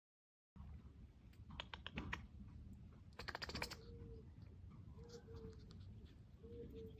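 Puppy whining softly in three short, steady whines, after a run of light clicks and a brief scuffle of noise.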